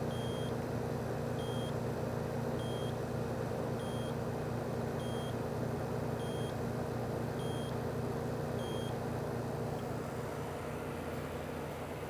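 Steady hum of a running air conditioning or refrigeration unit and its fan. A high electronic beep sounds eight times, about once every 1.2 seconds, and stops about nine seconds in.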